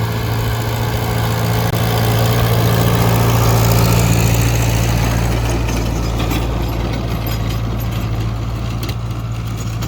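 Ford Jubilee tractor engine running steadily under load while driving a 5-foot rotary tiller, with the tiller's gearbox and tines clattering through the soil.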